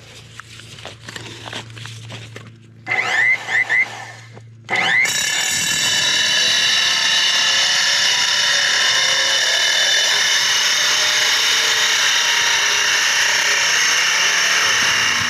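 A handheld electric power tool is blipped in a few short bursts about three seconds in. From about five seconds it runs steadily at full speed with a loud, high whine.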